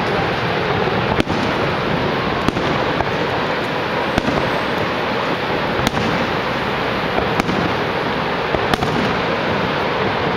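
Fireworks shells bursting in sharp bangs, about six of them, roughly one every second and a half, over a steady rushing roar, the sound of Niagara Falls.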